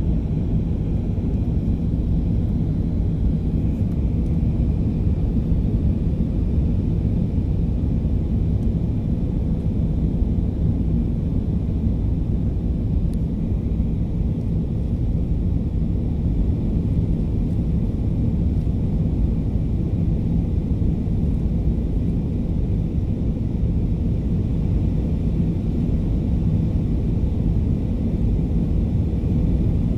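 Airbus A320 airliner cabin in flight: a steady low rumble of engine and airflow noise with a faint constant hum.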